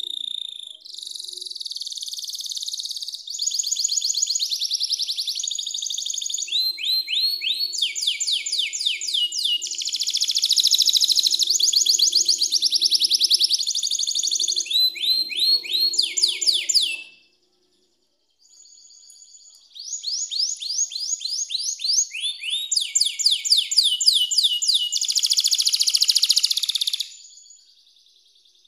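Domestic canary singing: long rolling trills and fast runs of repeated rising chirps, in two long phrases with a short pause about two-thirds of the way through.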